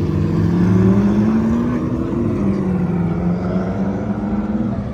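A car's engine and exhaust running loud under throttle: the pitch rises over the first two seconds, then eases back and holds steady.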